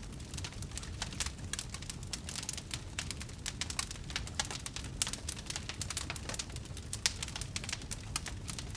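Wood fire burning in a fireplace, crackling with many small irregular pops and snaps over a low steady rush of the flames.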